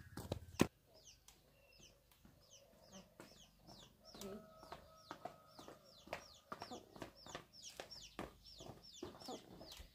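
A few sharp knocks right at the start, the loudest near the end of the first second, then birds chirping steadily: quick, high, short chirps that fall in pitch, several a second.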